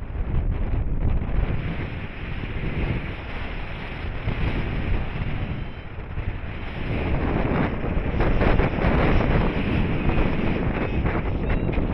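Airflow of a paraglider flight rushing and buffeting over the microphone in gusts, growing louder about seven seconds in. A few short ticks near the end.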